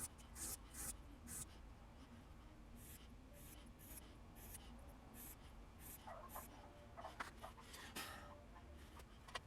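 Faint scraping strokes of a steel broadhead blade being rubbed back and forth on a water stone while it is honed. The strokes come irregularly, a few a second, with some small clicks near the end.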